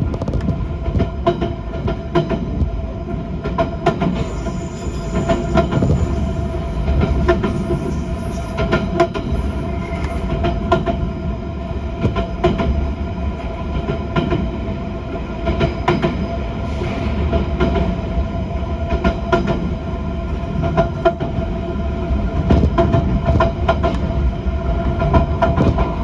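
Train running, heard from inside the passenger car: a steady low rumble with a held tone, and frequent uneven clicks of the wheels over the rails.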